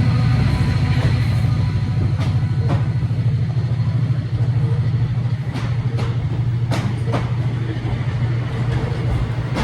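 A train moving through a station: a steady low rumble with scattered sharp clicks and knocks from the rails.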